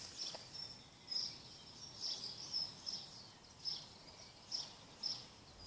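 Faint bird chirps: a string of short, high notes at irregular intervals over quiet outdoor background noise.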